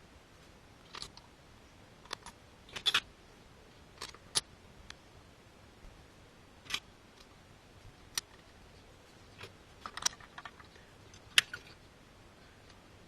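Metal tools and engine parts clinking and tapping during motorcycle engine work: a dozen or so scattered sharp clicks, the loudest near the end.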